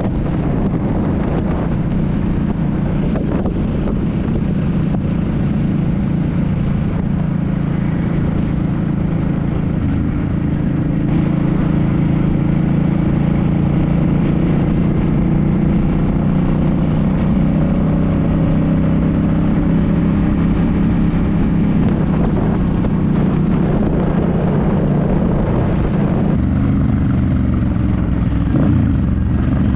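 Suzuki C50 cruiser's V-twin engine running steadily under way, its pitch drifting up and down with road speed. It gets a little louder about twelve seconds in and changes pitch near the end.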